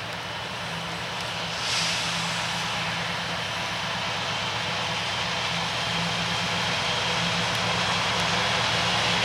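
Approaching CPKC freight train, its diesel locomotives running with a low throb and growing steadily louder.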